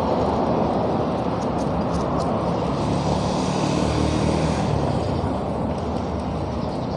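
Steady wind rush on the microphone and road noise from riding a bicycle in traffic, with a faint engine hum from a passing vehicle around the middle.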